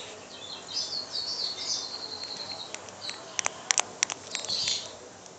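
A small bird twittering faintly with high, quick chirps for about two seconds, followed by several sharp clicks.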